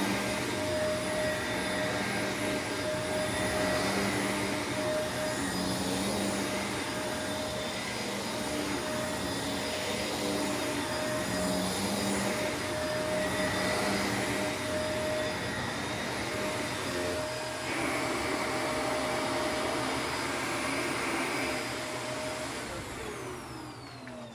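Shark bagless upright vacuum cleaner running steadily with a hum and whine. Near the end it is switched off and the motor winds down with a falling whine.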